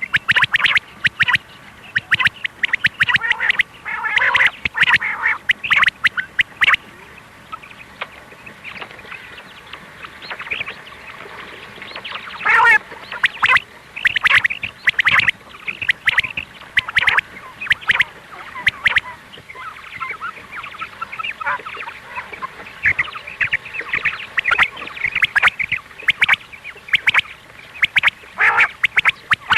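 Quail calling, a rapid series of short calls repeated in dense clusters, with a fainter stretch partway through.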